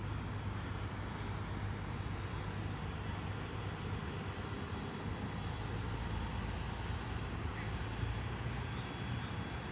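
Steady engine drone from the 2021 Ram 1500 TRX's supercharged 6.2-litre V8, running at a constant speed with no revving.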